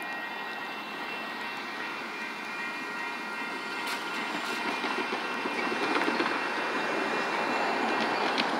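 A Metro Blue Line light-rail train running past a grade crossing: a steady rumble that grows louder about halfway through. Several steady high tones fade out around the same point.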